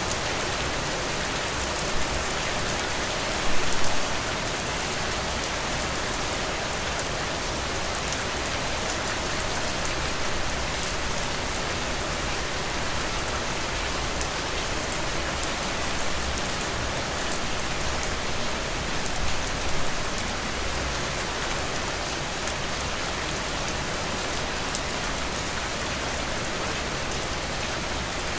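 Heavy rain falling steadily: a dense hiss with fine, fast pattering of individual drops. It swells briefly louder about four seconds in and again around twenty seconds.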